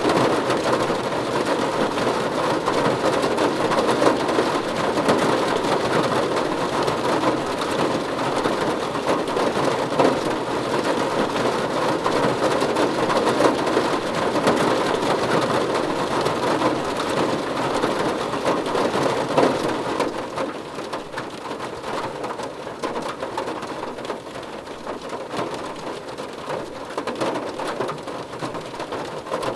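Steady, dense rainfall, a continuous hiss of drops, easing to a softer level about twenty seconds in.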